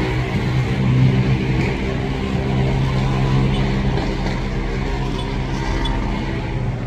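Jet airliner engines, a steady rumble with a low hum, slowly fading away.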